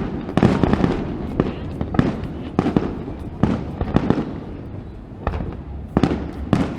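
Fireworks display: aerial shells bursting in a rapid, irregular string of sharp booms, about one or two a second, over a low rolling rumble.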